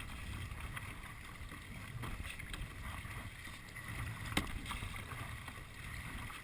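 Kayaks paddling on calm water: light paddle dips and drips over low wind rumble on the microphone, with a sharp click about four seconds in.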